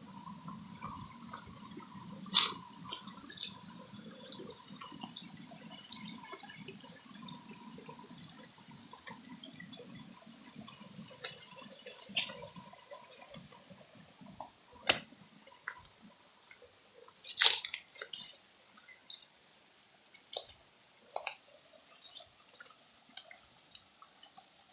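Water flowing at a waterfall, a low rush that thins out halfway through, followed by a run of sharp clicks and drips in the second half.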